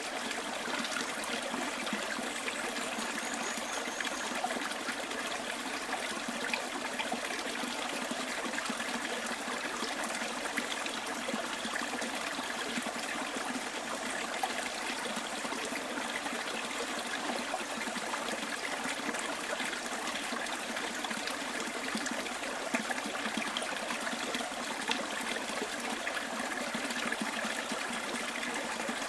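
Bush stream trickling and babbling steadily. A faint high chirp comes about three seconds in.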